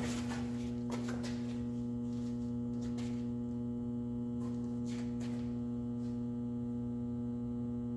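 1971 Gravely 450's engine running steadily at a throttled-down speed, an even hum with no change in pitch; its carburetor is freshly rebuilt and it is burning something off in the exhaust.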